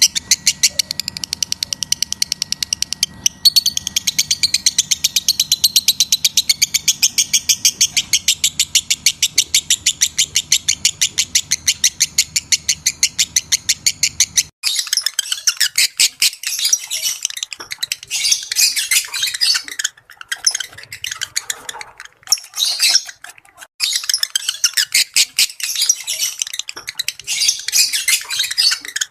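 Lovebirds chattering: rapid, high-pitched, evenly repeated chirps over a low hum, then about halfway through the sound switches abruptly to irregular, bursty chattering with short pauses.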